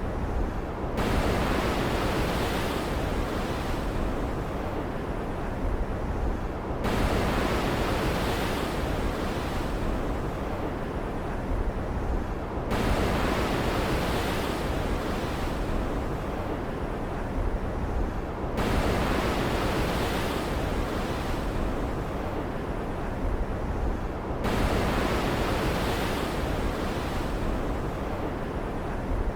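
Stormy ocean surf ambience: a wave surges in about every six seconds and then fades, over a steady low rumble.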